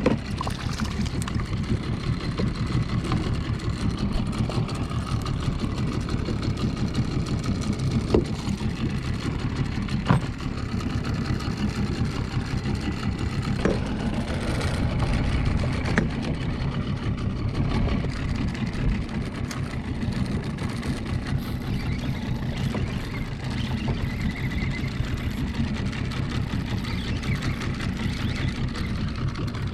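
Small outboard motor running steadily at low revs, keeping the boat positioned over a school of fish, with a few brief sharp knocks.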